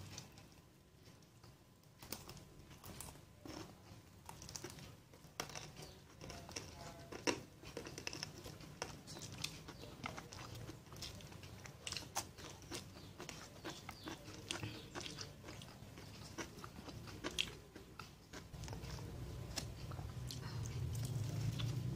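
Close-up eating sounds: chewing and crunching food, with many small wet clicks and crackles. A low hum rises in the last few seconds.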